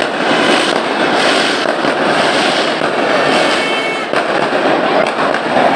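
Firecrackers going off in a dense, continuous crackle of rapid pops with no pause.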